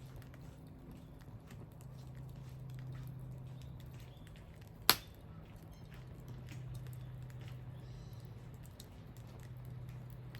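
Wood bonfire crackling with scattered small ticks and one sharp loud pop about five seconds in, over a steady low hum.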